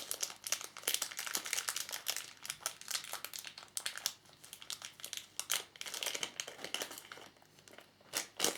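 Plastic packaging and a sticker sheet being handled, crinkling in close, irregular crackles while the small oval sticker is found and its backing peeled.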